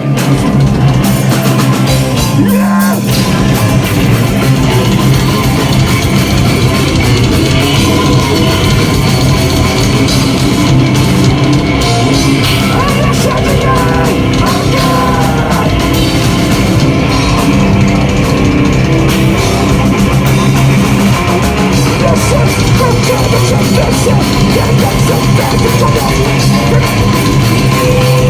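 A rock band playing loud, live, with electric guitars and a drum kit.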